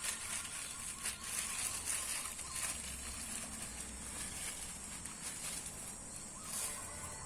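Insects, crickets or cicadas, giving a steady high-pitched buzz, with a few faint clicks.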